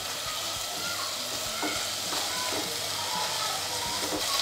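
Chilli-garlic Schezwan paste sizzling in hot oil in a pan with a steady hiss, while a spatula stirs and scrapes through it.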